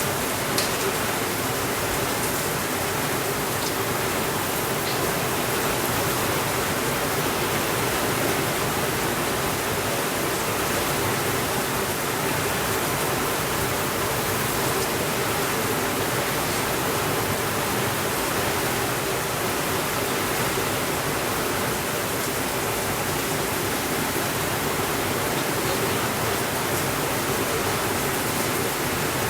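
Steady rainfall, a dense even hiss, with a few faint clicks scattered through it and one sharper click about half a second in.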